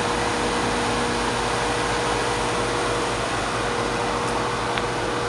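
Steady mechanical hum with one constant mid-pitched tone over an even rushing noise, unchanging throughout.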